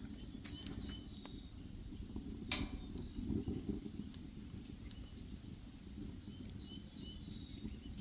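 Small wood-fired stove burning, with scattered crackles and clicks, the sharpest about two and a half seconds in, over a low outdoor rumble. Short high bird chirps come near the start and again near the end.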